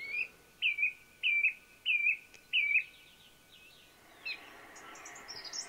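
Wild birds calling: a series of five alike call notes about two-thirds of a second apart, then after a short gap a higher, quicker twittering near the end.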